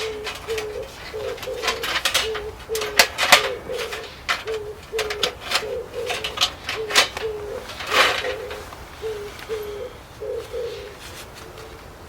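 A dove cooing, its short low notes repeating about twice a second and fading out near the end. Scattered sharp cracks and clicks sound over it.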